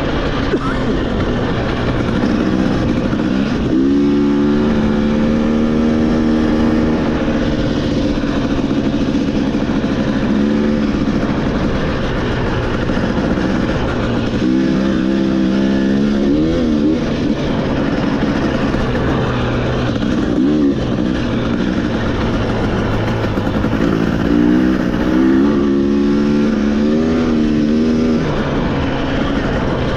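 Off-road motorcycle engine running through changing throttle, its pitch climbing and dropping again and again as the rider accelerates and eases off. A steady rush of noise runs underneath.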